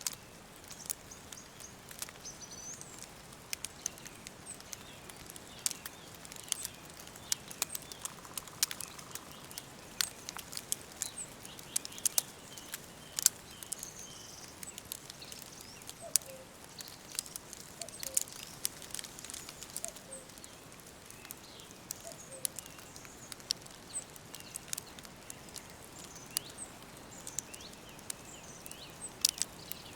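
Wood fire crackling with frequent sharp pops over a steady soft hiss, with small birds chirping and tweeting throughout and a few short, lower calls midway.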